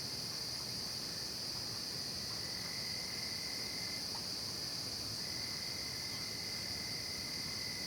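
Night chorus of crickets and other singing insects: a steady, unbroken high-pitched trilling. A fainter, lower trill comes in about two and a half seconds in, breaks off briefly near the middle, and resumes.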